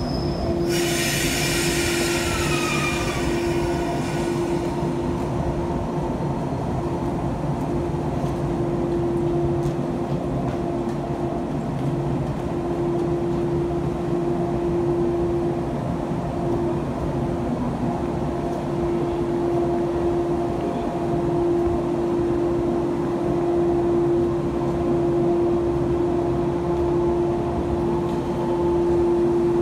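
JR East 485-series train standing at the platform: its underfloor equipment hums steadily at one pitch. Just under a second in, compressed air hisses out for about four seconds.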